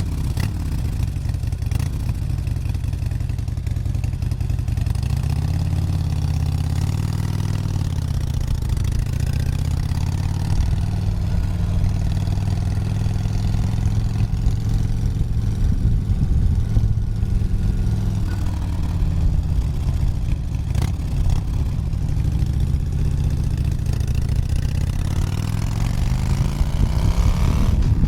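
Motorcycle engine running under way, its pitch rising and falling with throttle and gear changes, and climbing again near the end.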